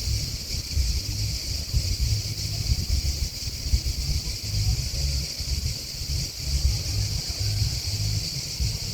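Steady high-pitched chorus of grasshoppers and crickets chirping together, with gusty wind buffeting the microphone as an uneven low rumble that is louder than the insects.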